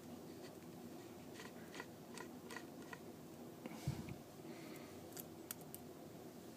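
Faint small clicks and taps of a precision screwdriver and tiny screws being worked out of an iPhone 4S's volume and vibrate flex cable, with a soft thump about four seconds in, over a low steady hum.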